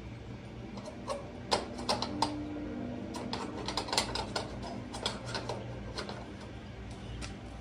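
Irregular light clicks and knocks, several a second, from parts of a 1940s stove being handled during cleaning.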